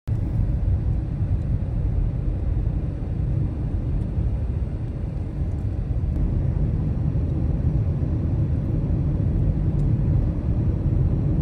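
A steady low rumble, with no distinct events in it.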